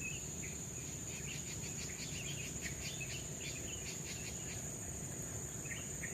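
Forest insects keeping up a steady high-pitched drone, with many short chirping calls over it and a low steady rush underneath.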